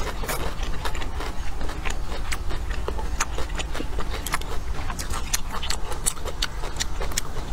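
Close-miked eating sounds: irregular crisp crunches and wet clicks of chewing, with a slurp of rice noodles at the start.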